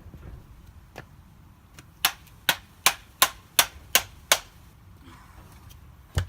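A caked vacuum cleaner filter from a Hoover Dust Manager being bashed to knock the dust out: seven sharp knocks in quick succession, about three a second, with a single knock about a second in and another near the end.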